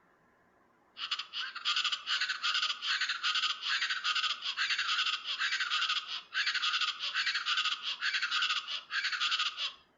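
East Brazilian chachalaca calling: a loud, dense run of harsh, rapidly repeated notes that starts suddenly about a second in, pauses briefly about two-thirds through, and cuts off abruptly near the end.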